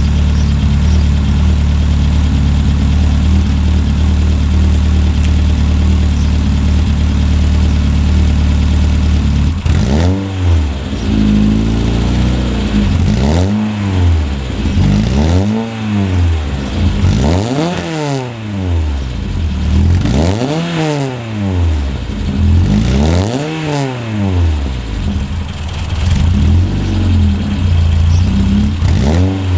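Peugeot 106 Rallye S1's four-cylinder engine, fitted with a full exhaust system. It idles steadily, then from about ten seconds in is blipped again and again, rising in pitch and falling back to idle about every two to three seconds, around seven times.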